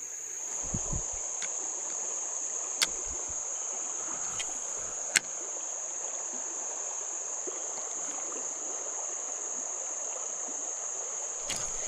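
Creek water running steadily, with a constant high-pitched insect drone over it. There are a few sharp clicks, the loudest about five seconds in.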